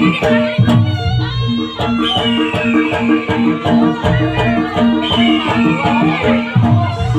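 Live Javanese jaranan ensemble music: a repeating pattern of pitched percussion notes over low drum strokes, with a high melody line that falls in pitch about every three seconds.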